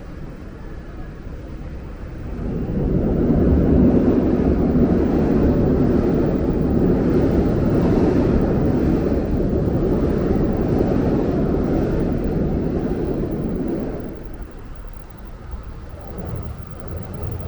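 A heavy vehicle passing close by with a loud, steady rumble. It swells about three seconds in and dies away near the end, leaving quieter street noise.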